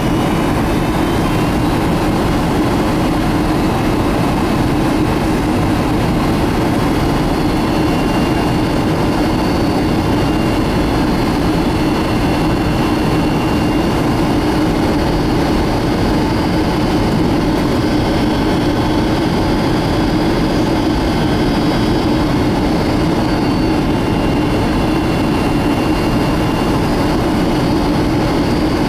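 Steady cabin noise of a Boeing 757-200 in flight: a constant rush of airflow and engine noise. Faint high whining tones from the turbofans drift slightly in pitch.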